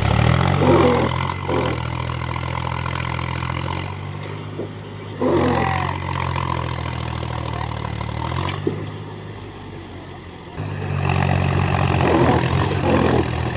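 Mahindra tractor's diesel engine running, its throttle opening up in surges: loud at the start, again about five seconds in and again near eleven seconds, easing back in between.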